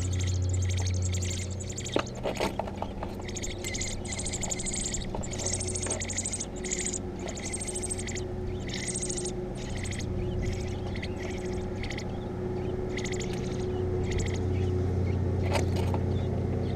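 Nestling birds cheeping in a rapid, continuous run of short high calls, over a steady low hum, with a few sharp clicks about two seconds in.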